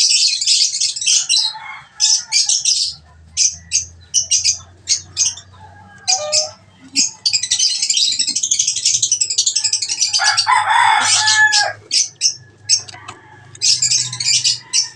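African lovebirds chattering: shrill, rapid chirps in short bursts, with a long run of continuous chatter in the middle.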